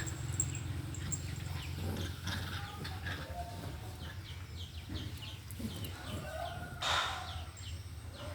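Birds calling, many short falling chirps or clucks, over a steady low hum, with a louder rushing burst about seven seconds in.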